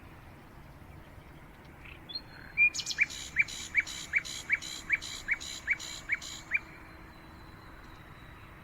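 A songbird calling a run of about ten sharp, loud repeated notes, each sliding down in pitch, about two and a half a second, starting a couple of seconds in and stopping a couple of seconds before the end, over a faint steady outdoor hiss.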